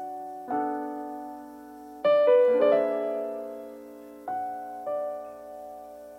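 Piano playing a slow, gentle passage: chords struck every second or so, each left to ring and fade before the next, with a brighter, louder chord and a few quick notes about two seconds in.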